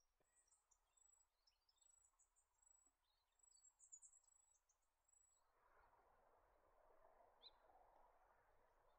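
Faint, very high-pitched trilling song of a superb fairy-wren, a run of rapid reeling notes during the first five seconds. After that a faint steady hiss takes over.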